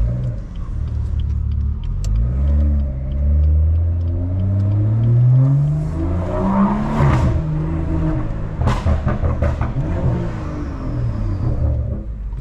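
Stage 2 tuned BMW 440i's turbocharged B58 straight-six pulling hard, its revs rising for several seconds. Sharp exhaust pops and crackles follow as the throttle comes off, one burst and then a quick cluster of cracks.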